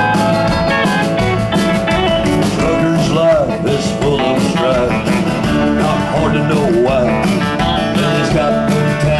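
Live country band playing the instrumental opening of a song: guitar lines with bent, sliding notes over a steady beat.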